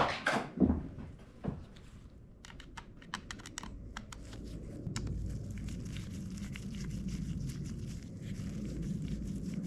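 Small metal parts and tools clicking and rattling as a carburetor is taken apart: a quick run of light clicks a few seconds in, then a steady low hum with faint ticking over it.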